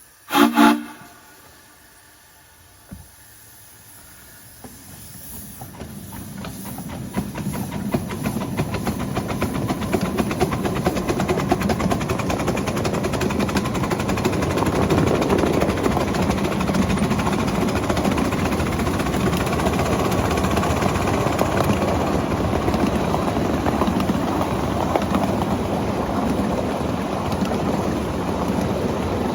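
A short, loud whistle blast from a Mikado-type steam locomotive, then the locomotive getting under way: the running noise of steam exhaust and wheels on rail builds up over several seconds and holds steady.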